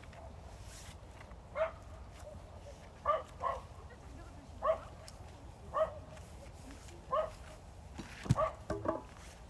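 A dog barking repeatedly, about eight short barks roughly a second apart, with a knock near the end.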